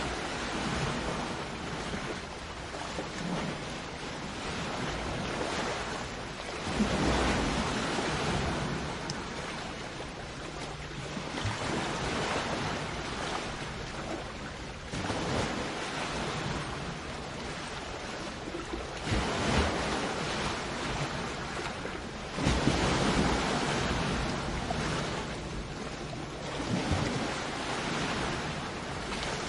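Sea waves breaking on a shore: a constant wash of surf that swells every few seconds as each wave breaks, the loudest breaks coming about a quarter of the way in and again about three quarters through.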